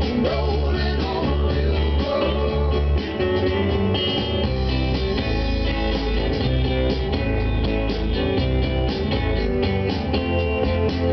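Rock music with guitar and a steady drum beat playing through a Pioneer SX-780 stereo receiver and its speakers, the receiver working on both channels after new output modules were fitted.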